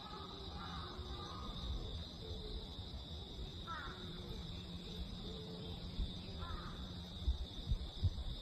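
Gusty back-side wind after a typhoon, buffeting the microphone with a low rumble that rises and falls, over a steady high insect chorus. A few short bird calls come about half a second, four and six and a half seconds in.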